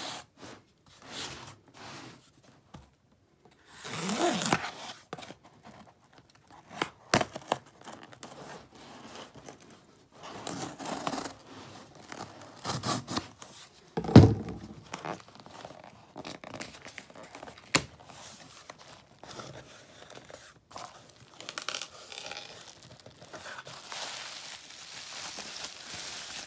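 A cardboard shipping box being cut and torn open: packing tape slit and ripped in short spells, cardboard scraping and packing material crinkling, with a few clicks and one loud knock about fourteen seconds in.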